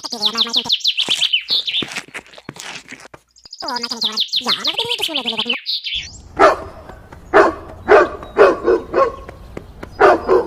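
Birds chirping in quick high runs, then from about six seconds in a dog barking in a series of short barks.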